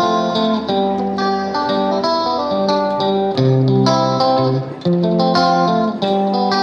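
Guitar music: a steady run of plucked guitar notes and chords, each note starting sharply and changing every fraction of a second.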